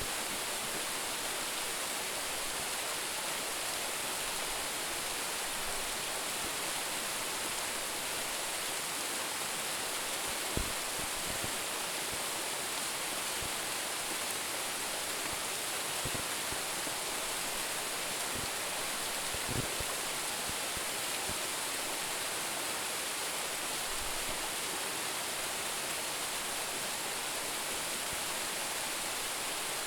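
Steady rushing of a small branching waterfall with a drop of about 10 m, an even hiss of falling water, with a couple of faint low bumps.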